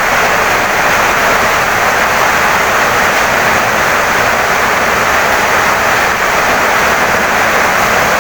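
Heavy rain pouring down on a wooden house, a steady even hiss with no separate drops or pauses standing out.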